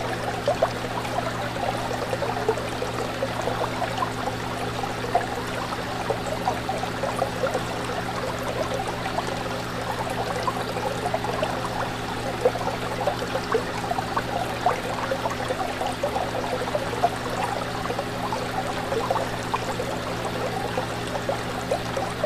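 Fish tank water bubbling and trickling steadily, full of small pops, over a steady low hum.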